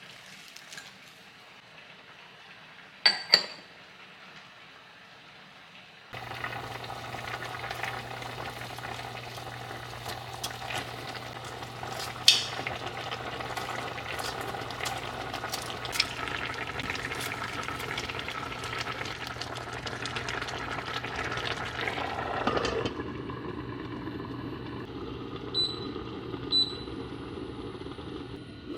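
Food sizzling and crackling in a hot frying pan, starting about six seconds in over a steady low hum. There is a sharp clink of a utensil before the frying starts, and two more light clinks near the end.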